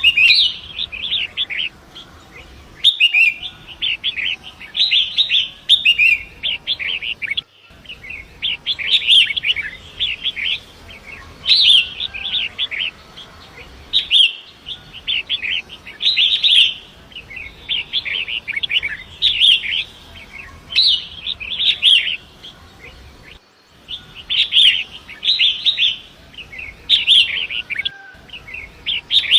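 Long-tailed shrike (pentet) singing: rapid, scratchy chattering phrases of quick high chirps, repeated every second or two, with short pauses between them.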